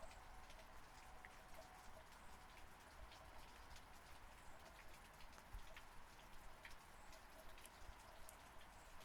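Faint, light rain falling steadily, with many separate drops striking close by.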